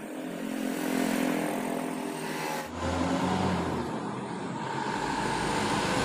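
A motor vehicle engine running, with a sudden change in its sound about three seconds in, then growing louder.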